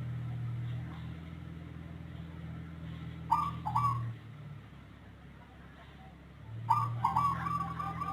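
Zebra dove (perkutut) singing: a short two-note coo about three seconds in, then about six and a half seconds in a long song begins, a quick run of repeated coos. Its voice is unusual, unlike the typical local or Bangkok perkutut. A steady low hum runs underneath.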